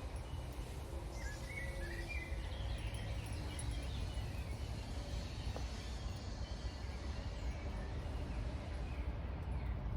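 Outdoor country ambience: a steady low rumble with a few short bird chirps, clustered about two seconds in.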